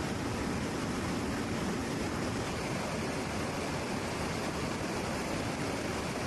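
Steady, even rushing noise of aircraft engines, with no distinct tones and no change in level.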